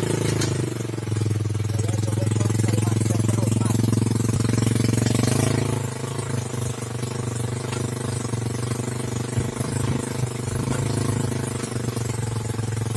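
Engine of a log-hauling winch running steadily; it eases a little and turns more uneven about six seconds in.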